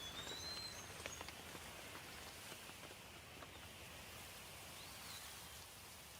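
Light rain falling with a soft, even hiss and scattered drips, with a bird chirping briefly near the start and again about five seconds in.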